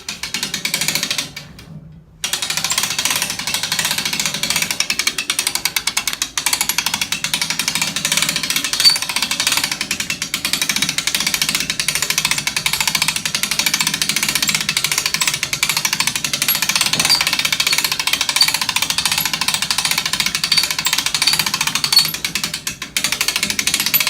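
Hand-cranked boat winch being cranked, its ratchet pawl clicking rapidly and continuously as it winches a heavy garden tractor up onto a lift. The clicking stops briefly about two seconds in, then runs on steadily.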